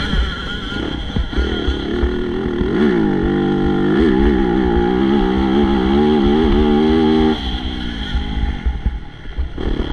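Motocross bike engine revving hard, its pitch rising and falling repeatedly as the throttle is worked, then dropping away suddenly about seven seconds in.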